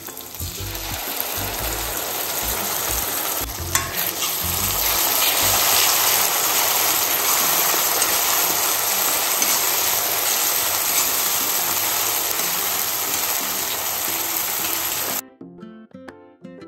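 Tomato paste sizzling and frying in hot oil with an onion and spice masala in a pan as it is stirred. The sizzle builds over the first second or two and has one knock about four seconds in. It cuts off suddenly near the end, where light background music takes over.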